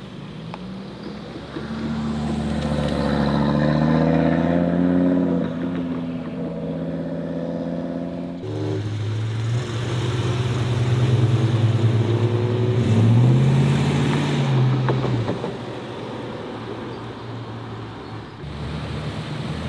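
Modified cars' engines accelerating away one after another: one engine note climbs over the first few seconds, then a second car with a deeper note takes over, revs up and drops back off, fading to quieter engine running near the end.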